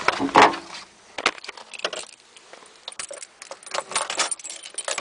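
Keys jangling and small clicks and rattles from handling the car's controls, with one louder clunk about half a second in. No engine is heard cranking or running.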